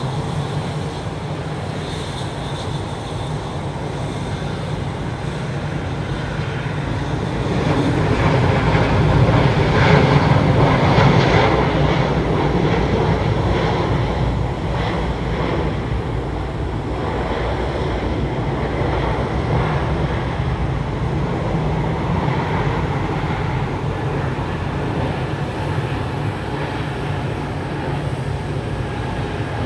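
Jet engines of a Spirit Airbus A321neo airliner, a steady rumble that swells to a peak about a third of the way in as the aircraft passes, then eases off.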